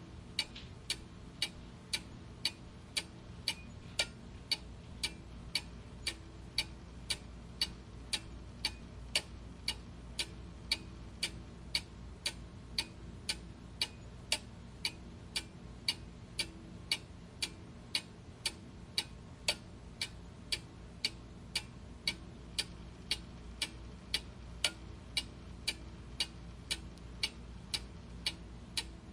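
Clock ticking steadily, about two evenly spaced ticks a second, over faint low background noise.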